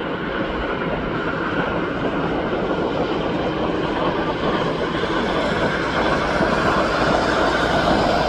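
Jet airliner engine noise, a steady rushing sound that grows gradually louder.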